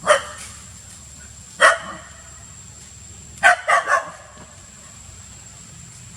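Short, sharp animal barks: one, another about a second and a half later, then a quick run of three.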